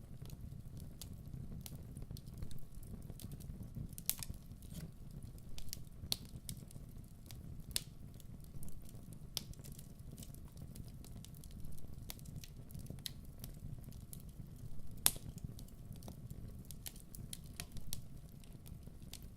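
Wood fire burning: a steady low rumble under irregular sharp pops and crackles, the loudest pop about fifteen seconds in.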